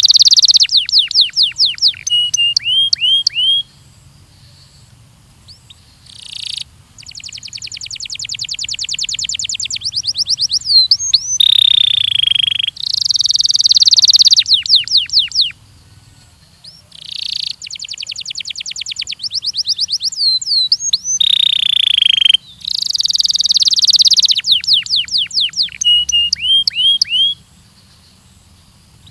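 Belgian canary singing: bursts of song made of very fast trills and runs of repeated sweeping whistled notes, high-pitched, with short pauses between phrases.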